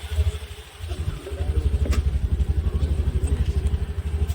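A motor vehicle engine running close by, a rapid, even low throb that grows stronger about a second in, with a short click partway through.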